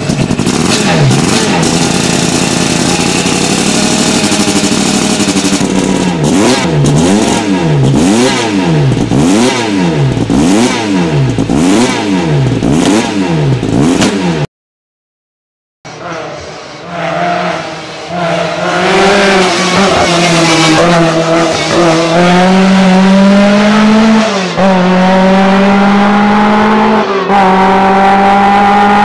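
Lancia car engine revved repeatedly, its pitch swinging up and down about once a second. After a short break, a Lancia engine accelerates hard, its pitch climbing with a couple of gear changes.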